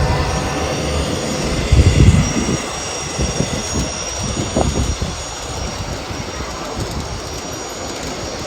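G-scale garden model train running on the track: a low rumble with a few heavier knocks about two seconds in, then a steadier noise.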